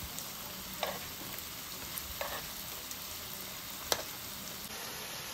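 Sweet potato patties frying in hot oil in a pan, with a steady sizzle. Three light clicks of metal tongs on the pan as the patties are turned, the sharpest near the end.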